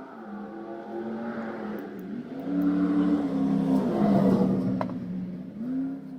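Small two-stroke outboard motor running and being revved, its pitch rising and falling a few times, loudest around the middle.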